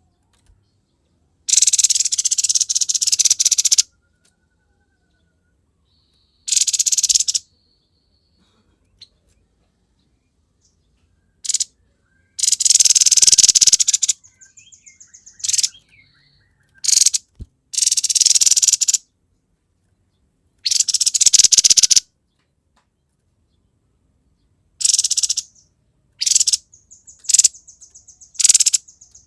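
Grey-headed babbler singing in repeated loud, rapid, harsh bursts of chatter, each a second or two long with short silent pauses between. Softer dry rattling trills follow two of the bursts. This is the fast 'konslet' style of song that bird keepers use as a tutor recording.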